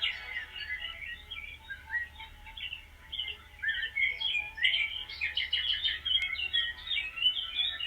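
Several small songbirds chirping and singing together, a busy overlapping chorus of quick high chirps and short rising and falling notes, most crowded a little past the middle.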